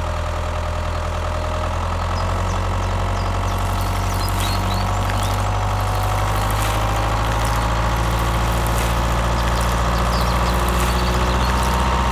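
Mini tractor engine running steadily at idle with a low rumble, and a faint whine that slowly rises in pitch.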